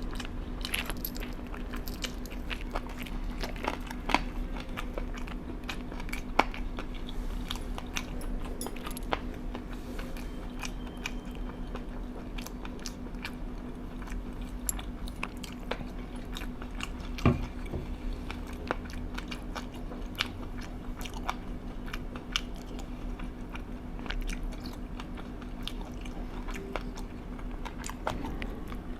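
Close-up eating: crunchy food being bitten and chewed, with scattered sharp crunches and clicks, the loudest about 17 seconds in, over a steady low hum.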